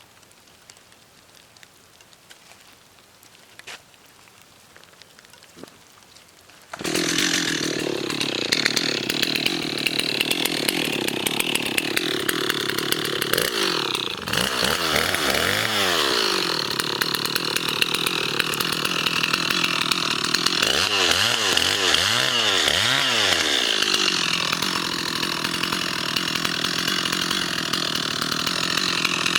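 Quiet for about seven seconds, then a loud engine-driven machine cuts in abruptly and runs steadily, its engine pitch rising and falling in two spells of revving.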